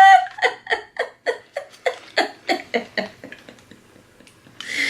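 A woman's voice making a run of short, wordless sounds of delight, about three a second, fading out after about three seconds. A breathy exhale follows near the end.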